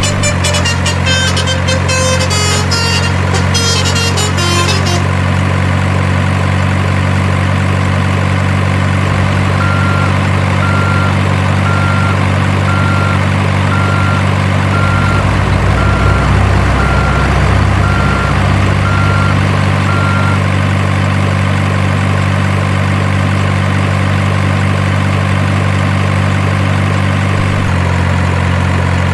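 Heavy truck diesel engine sound running at a steady idle, deepening into a heavier rumble for a few seconds midway. A reversing alarm beeps about once a second for roughly ten seconds. A high clattering rattle sounds over the first five seconds.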